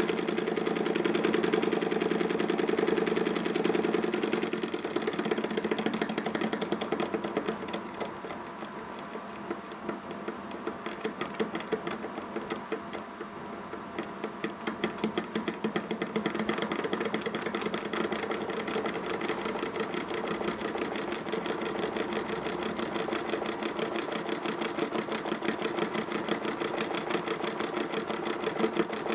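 Ernst Plank Cosmo model vertical steam engine running at speed, a quick, even, rapid mechanical clatter. It goes quieter for several seconds midway, then picks back up.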